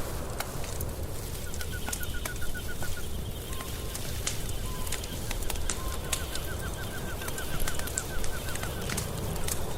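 Wood fire crackling steadily with frequent sharp pops. Over it, a rapid high chirping trill comes twice, once early and once in the second half.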